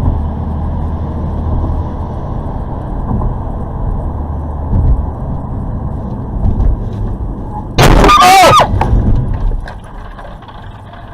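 Steady low road and engine rumble from a vehicle on a dashcam. About eight seconds in comes a sudden loud crash with a squeal, lasting about a second, before the rumble dies down.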